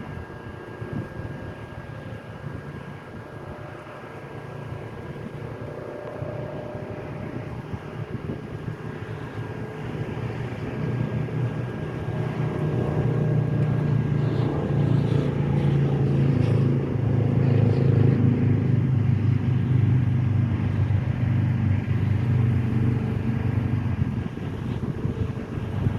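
An engine running steadily with a low hum, growing louder about ten to fourteen seconds in and staying loud.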